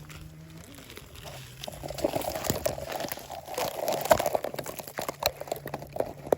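Leaves and twigs rustling and crackling as someone pushes through hedge vegetation, a dense run of irregular crackles starting about two seconds in.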